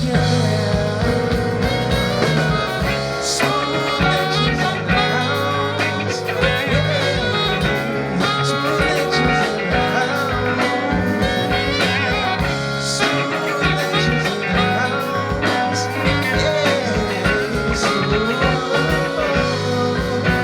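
Blues-tinged band music with a steady beat, guitar and singing.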